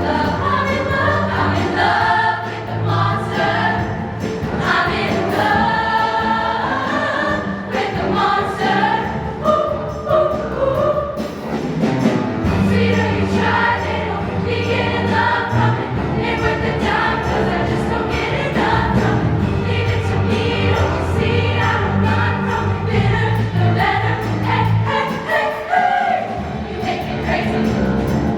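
High school show choir singing in harmony with musical accompaniment, sustained low bass notes under the voices.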